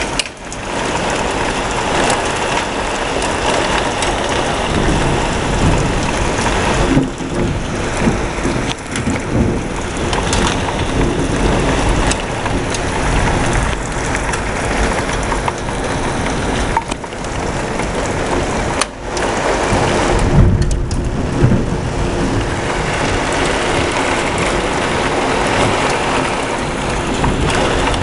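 Heavy thunderstorm rain pouring steadily, with thunder rumbling; the deepest, loudest rumble comes about twenty seconds in. The sound dips briefly a couple of times.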